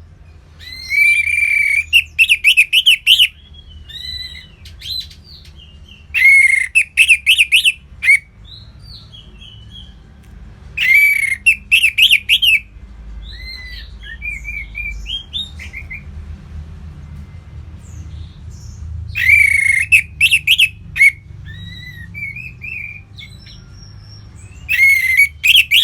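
Orange-headed thrush singing loud song phrases about every five seconds, each opening with a held whistled note and running into quick, varied notes, with softer chirps in between.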